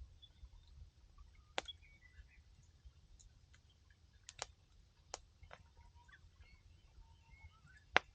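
Wood fire crackling, with a handful of sharp, scattered pops from the burning firewood; the loudest comes near the end. Faint bird chirps sound underneath.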